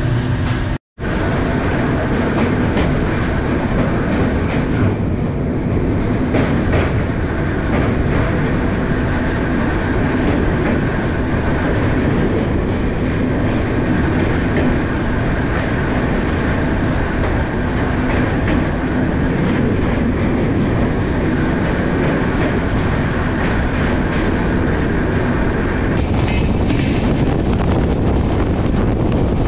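Passenger express train running at speed, heard from the coach door: a steady rumble of wheels on the rails with scattered clicks. The sound drops out completely for a moment about a second in.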